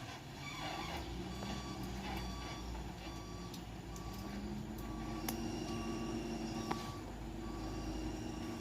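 A dump truck's diesel engine running, with an electronic warning beeper sounding a short tone about every 0.7 s, like a reversing alarm. The engine note rises about halfway through. A couple of sharp clicks come through near the middle.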